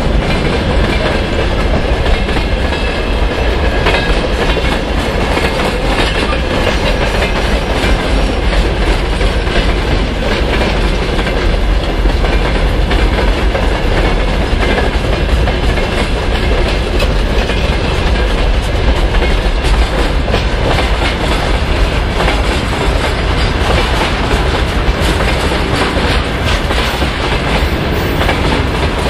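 Freight train wagons rolling past on the near track: a loud, steady rumble and clatter of steel wheels on the rails.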